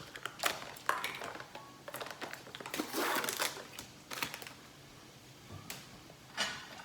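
Scattered clicks, taps and short rustles of a breadcrumb container and kitchenware being handled, busiest about two to three seconds in.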